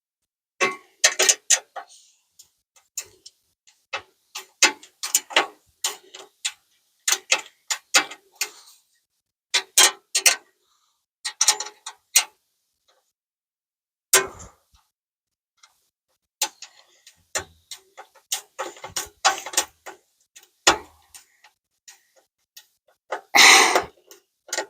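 Ratchet wrench clicking in short runs as license-plate and bumper bolts are tightened, with a longer, louder rattle near the end.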